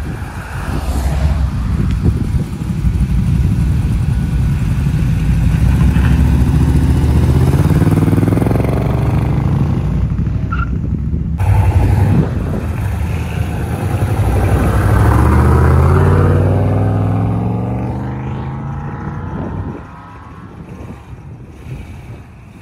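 A motor vehicle's engine accelerating: its pitch climbs steadily, breaks off briefly near the middle, climbs again, then the sound fades away in the last few seconds.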